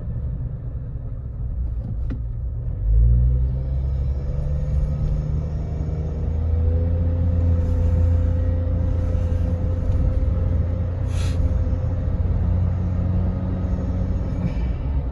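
Suzuki Jimny JB64's 660 cc turbocharged three-cylinder engine and road rumble heard from inside the cabin. The engine note rises as the car pulls away about three seconds in, then holds steady while cruising.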